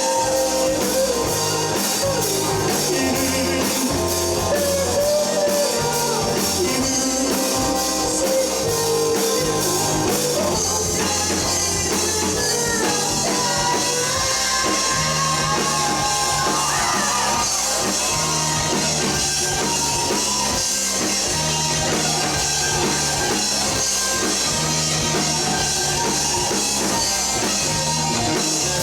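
Live rock band playing a passage without transcribed vocals: drum kit with cymbals, bass guitar moving through steady held notes, and an electric guitar line that glides and bends in pitch over them.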